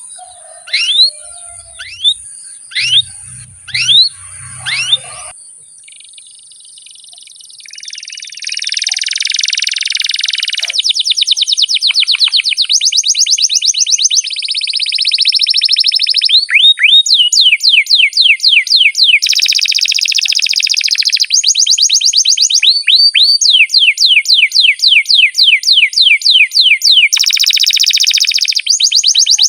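Domestic canary singing a long song: first a few separate rising whistled notes, then from about eight seconds a near-continuous series of fast trills, each a rapid string of repeated rising notes, switching from one trill to the next every few seconds.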